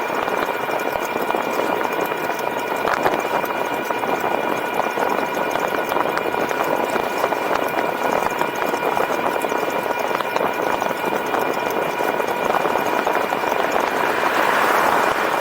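E-bike under way: a steady rushing of wind and tyre noise with a thin steady whine of several tones from its electric motor.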